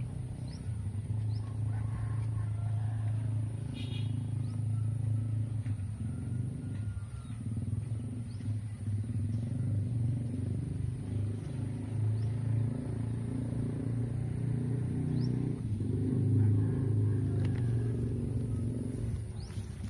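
A motor engine running steadily with a low drone that wavers in loudness, with faint high chirps over it.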